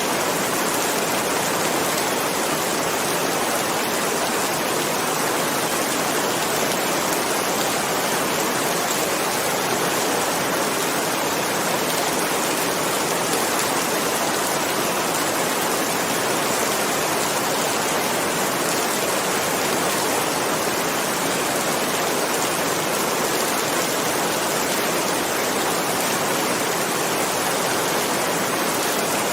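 Steady heavy rain falling without a break, an even hiss with no thunder.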